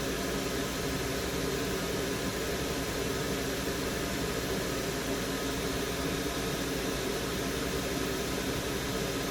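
Steady hiss of a hot air rework station's blower and a solder fume extractor fan, with a faint steady hum; the hot air is reflowing solder on the board.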